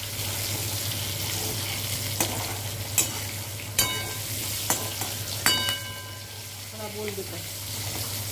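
Potato chunks sizzling in hot oil in a metal kadai, stirred and turned with a spatula that knocks against the pan about five times. The pan rings briefly after two of the knocks.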